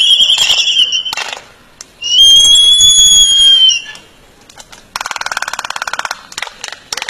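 Birds calling: a loud whistled note, then a longer whistle that rises and falls, then a fast buzzy trill lasting about a second.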